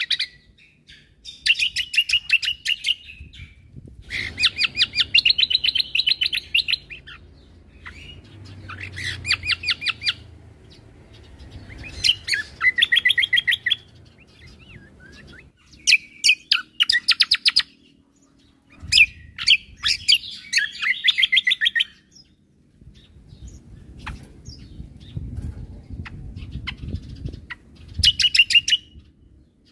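Cucak kombo (kecial kombo) songbird singing in repeated bursts of fast, rapid-fire chirping, each burst a second or two long, with short pauses between.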